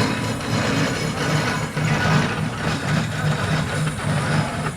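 A heavy engine running steadily with a low, even pulse of about three beats a second.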